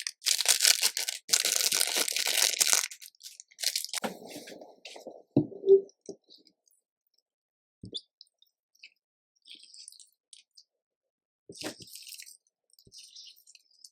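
Slime being pressed and mixed with makeup: a dense crackling crunch for about the first three seconds, then softer squishing with a sharp pop around six seconds in, then scattered faint sticky clicks and a brief crackle near the end.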